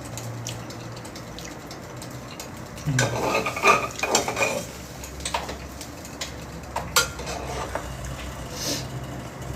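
Utensils clinking and scraping against dishes as food is dished up: mostly quiet at first, a busy patch of clatter about three seconds in, then a few single sharp clinks.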